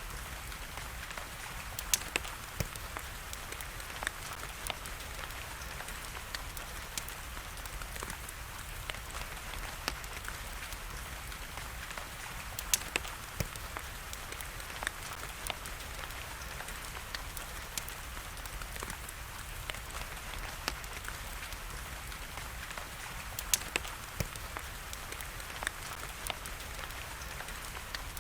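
Wood fire crackling with irregular sharp pops, a few of them much louder, over a steady hiss of rain.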